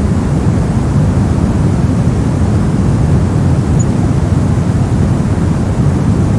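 Continuous synthetic white noise, a steady, unchanging rush weighted toward the low end.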